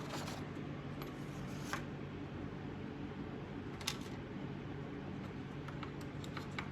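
A few light, sharp clicks and ticks from small metal transmission parts being handled, over a steady background hum.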